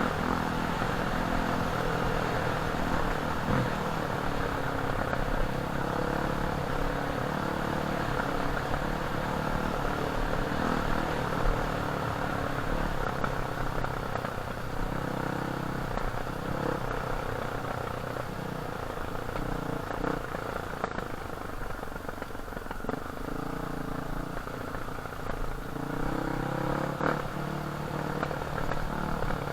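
Off-road enduro motorcycle engine running while riding, its pitch rising and falling with the throttle, with some rattling.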